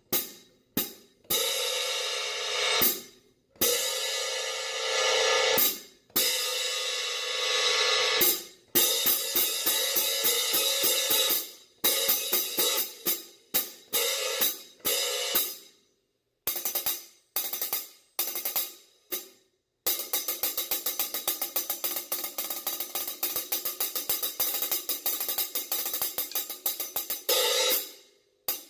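Paiste 16-inch 2002 Sound Edge prototype hi-hats, with the wavy-edged bottom cymbal, being played: sharp closed chicks and several long open washes that ring out, then a quick run of strokes with open decays, and from about two-thirds of the way in a fast, even pattern of many strokes a second.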